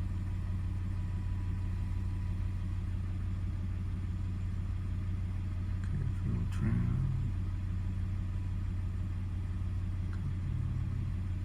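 2002 Toyota 4Runner engine idling steadily and evenly after warming up into closed loop. A short pitched sound rises over it about two-thirds of the way through.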